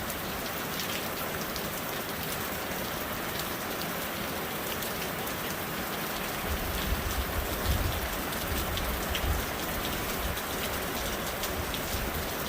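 Steady rain falling, heard from under a shelter, with many single drops ticking through the hiss. About halfway through, a low rumble starts and comes and goes.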